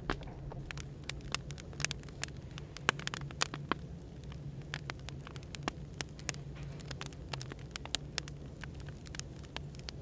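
Wood fire crackling with irregular sharp pops, over a steady low hum of café white noise.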